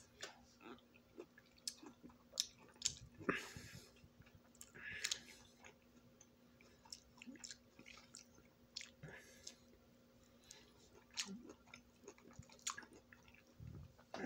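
Close-up mouth sounds of someone chewing orange slices: many small wet clicks and smacks, with a couple of louder wet bursts about three and five seconds in. A faint steady hum underneath.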